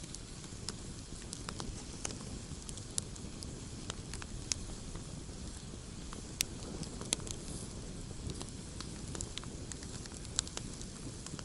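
Wood campfire burning with irregular sharp crackles and pops over a steady low rumble of the flames, a few pops standing out louder than the rest.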